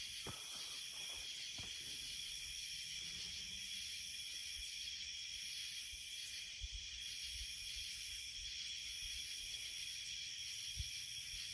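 Night-time insect chorus: several steady shrill trills layered together, with a higher pulsing call that comes and goes about once a second. A couple of faint low thumps are heard in the middle and near the end.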